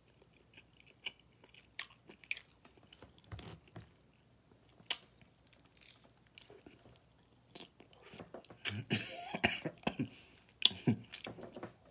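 Close-miked chewing and lip smacking of a man eating sauce-covered pork ribs: wet clicks and smacks scattered through, coming thicker and louder about nine seconds in.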